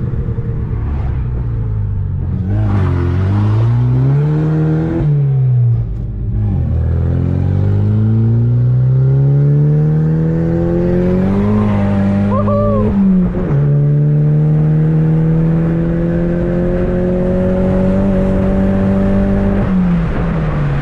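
Chevrolet Cobalt SS four-cylinder engine, fitted with a newly installed electric exhaust cutout, accelerating through the gears, heard from inside the cabin. The pitch climbs, drops at a gear change about five seconds in, and climbs again. It then holds steady while cruising and falls near the end.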